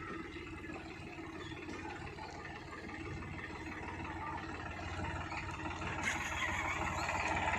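Powertrac tractor's diesel engine idling steadily with a fast, even pulse. A hissing noise grows in about six seconds in and the overall sound gets louder toward the end.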